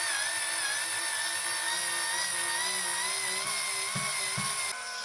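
Electric screwdriver running in one steady, slightly wavering whine, backing out a screw, and stopping just before the end.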